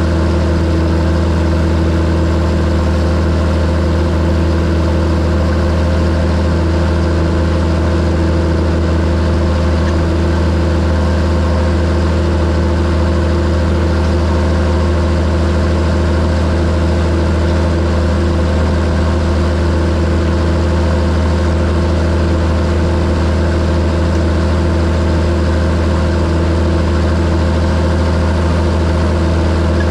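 John Deere 7730 tractor's six-cylinder diesel engine running steadily at a constant speed, with a deep, even drone and no revving.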